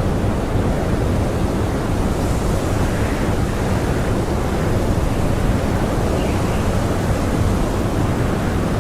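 Strong blizzard wind blowing steadily: a dense, even rushing noise heavy in the low end, with a few faint higher swells as gusts come and go.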